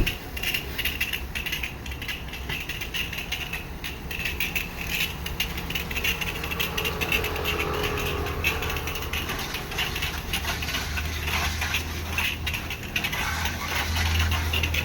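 Car wash pressure washer running steadily: a low motor hum under a flickering hiss of spray.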